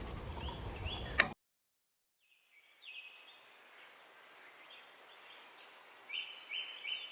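Birds chirping: a series of short, rising chirps that come thicker near the end, over faint background hiss. Before them, about a second of steady outdoor noise ends in a sharp click and a second of silence.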